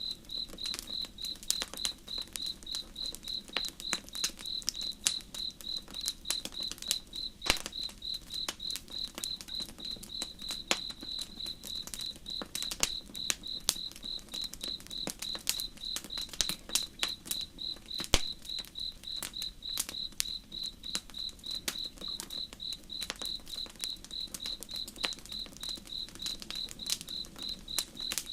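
A cricket chirping steadily in an even run of high chirps, over the crackle and sharp pops of a wood campfire, with a louder pop about a third of the way in and another a little past halfway.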